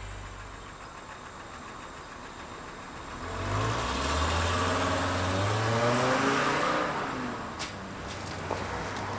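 A motor vehicle's engine passing by, its pitch rising and then falling from about three seconds in to about seven seconds in, followed by a few light clicks.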